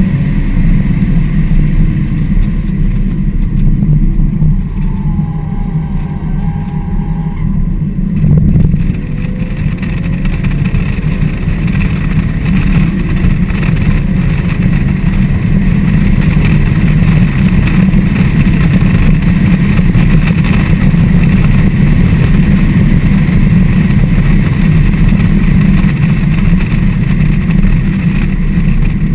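Turbocharged straight-six of a BMW 335i with catless downpipes, running hard under load, heard from inside the cabin over road and wind noise. It eases off about four seconds in, with a brief thin squeal, then gives a single thump about eight seconds in before pulling hard and steady again.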